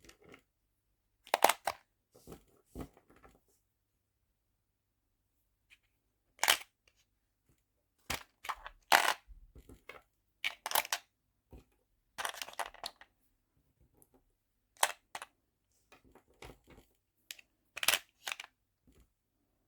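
Small nail charms and little plastic storage boxes being handled and sorted: irregular short clicks and brief rattles, a dozen or so, with quiet gaps between them.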